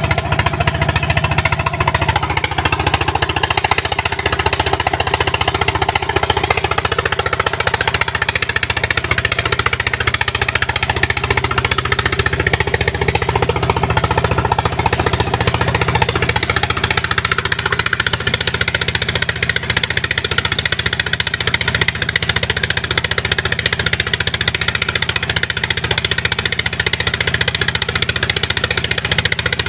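Engine of a sand-suction pump running steadily at constant speed, loud, with a rapid, even knocking beat.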